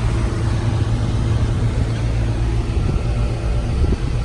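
2014 Goodman heat pump outdoor unit running steadily, a constant low compressor hum under the rush of its condenser fan. It is running flat out in hot weather, unable to pull the house down to its setpoint.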